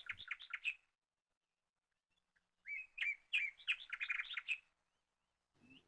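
A small bird chirping: two quick series of short, high notes, one right at the start and a longer one about three seconds in.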